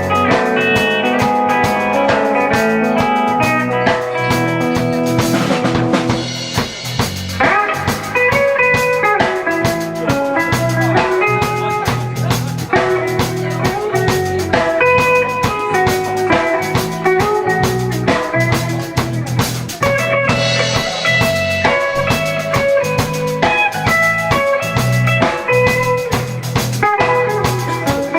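Live rock band playing, with a drum kit and guitar.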